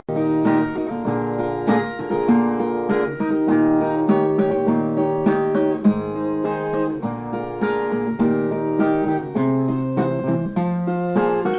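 Instrumental music led by a plucked viola, picking a melody over a steady bass line. The piece starts abruptly at the beginning.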